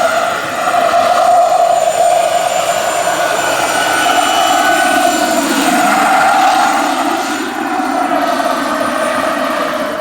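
Turbine-powered RC scale model helicopter in flight: a steady turbine whine over the rotor sound, dipping briefly about half a second in and again near the end.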